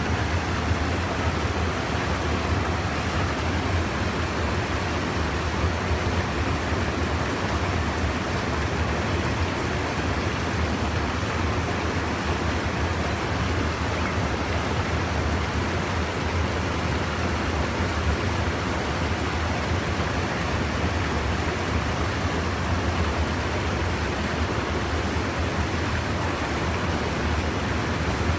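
Steady rushing of stream water spilling over a small check dam, an even noise with a low rumble underneath.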